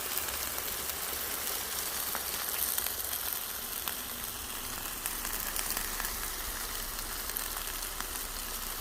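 Whole chickens sizzling on a wire grill over a wood fire as their fat runs off: a steady hiss with a few faint ticks.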